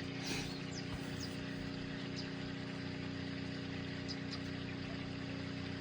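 Steady machine hum with a constant low tone and a few faint light ticks.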